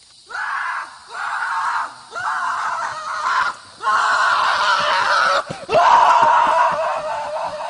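Someone screaming: five long, loud cries in a row with short breaks between them.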